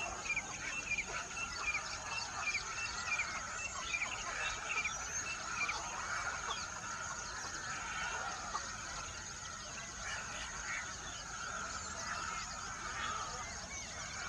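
Many birds calling at once: quick, repeated short chirps, busiest in the first half, over a continuous background chatter and a steady high hiss.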